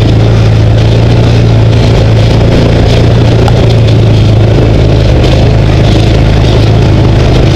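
Side-by-side UTV engine running at a steady pitch while driving, a constant low drone heard close up from the passenger seat.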